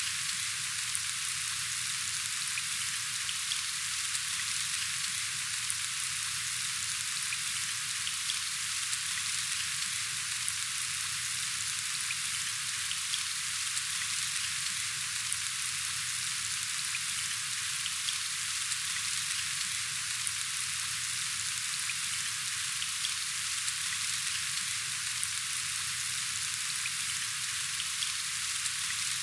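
Steady rain falling: an even, dense patter of drops with faint individual ticks.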